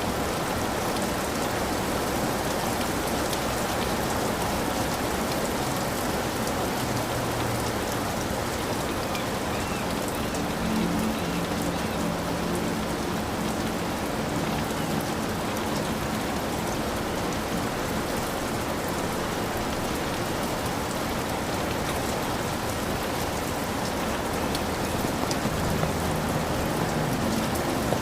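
Heavy rain falling steadily on a hut's roof, a dense even pattering of drops.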